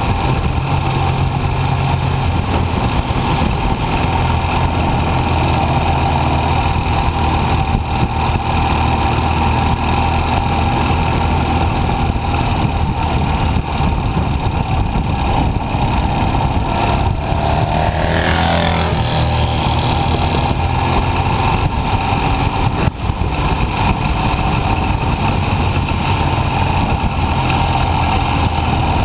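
Motorcycle engine running steadily as it is ridden, its low pitch shifting a little with the throttle. A brief sweep in pitch comes about two-thirds of the way through.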